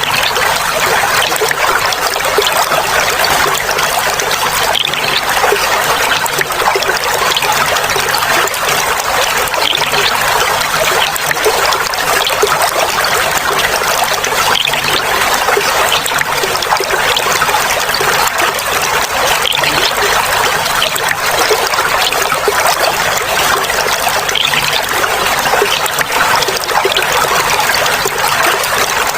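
Clear running water trickling and babbling in a steady, unbroken flow, with fine splashing.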